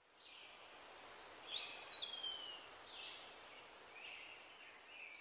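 Faint birdsong over a steady outdoor hiss: several short high chirps, and one clear whistled note that rises and then slides downward about two seconds in.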